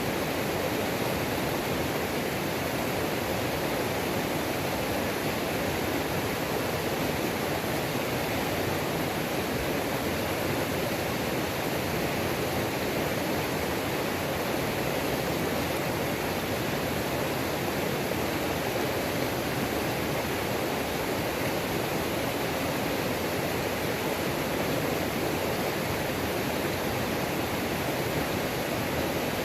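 Waterfall on a mountain creek, a steady even rush of falling water that does not change.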